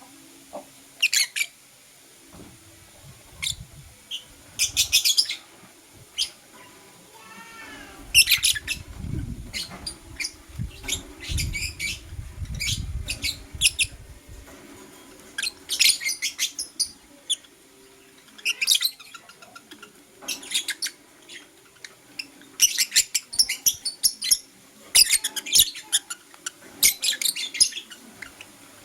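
Blue opaline lovebird chirping in rapid clusters of high-pitched notes every second or two, with a low rumble for several seconds near the middle.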